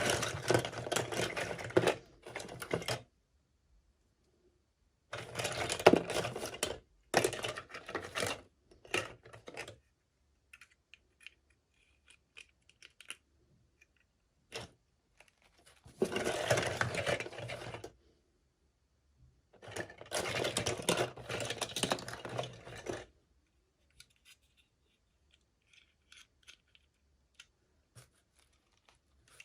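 Plastic toy packaging crinkling and rustling as it is handled and opened, in about five bursts of a second to three seconds each, with small clicks and taps in the pauses between.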